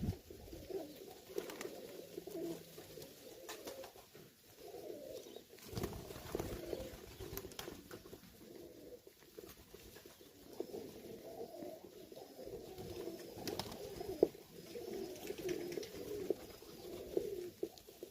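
Domestic pigeons cooing in a loft, a steady wavering murmur of low coos, with a few sharp clicks and scuffs among them.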